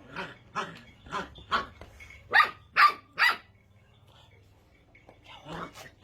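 Puppy barking: a run of short, sharp yaps about twice a second, the three loudest around the middle, then a pause and two more yaps near the end.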